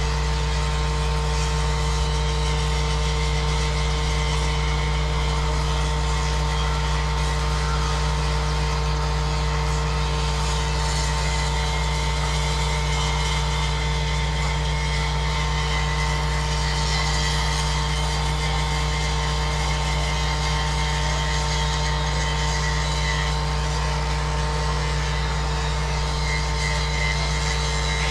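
A steady machine drone: a constant low hum with two held tones, unchanging throughout.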